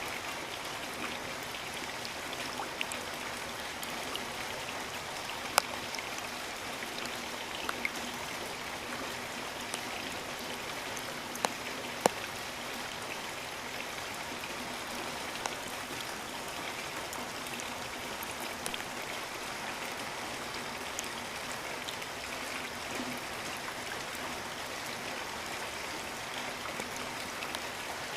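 Steady rain falling, with now and then a single heavy drop ticking sharply, a few times, most clearly about five and a half and twelve seconds in.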